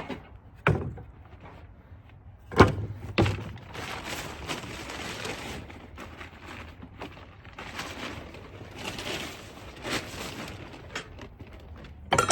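Objects and tools being moved about and set down on a workbench: several sharp knocks and thumps, with a stretch of uneven scraping and rustling in the middle.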